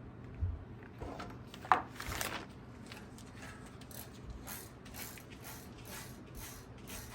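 Bicycle-workshop mechanical noise: a sharp knock, then a run of light ratchet-like clicks at about two a second.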